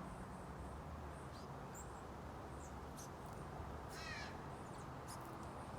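Outdoor bird calls: scattered short, high chirps, and about four seconds in one harsher call lasting under half a second, over a steady low rumble.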